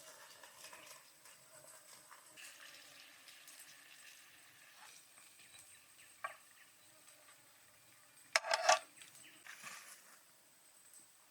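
Quiet food-prep sounds of utensils and food being handled and stirred, small scattered clicks and soft scraping, with one brief louder clatter about eight seconds in.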